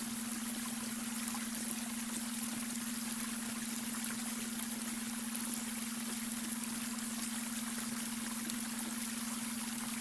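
Babbling brook: steady, even trickling and rushing of shallow water over stones, with a steady low tone underneath, the beta-wave brainwave tone mixed into the water sound.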